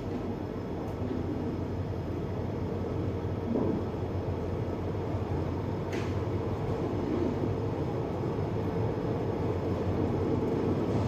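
Steady low rumble and hum of a passenger train coach rolling slowly, heard from the coach window, with a single sharp click about six seconds in.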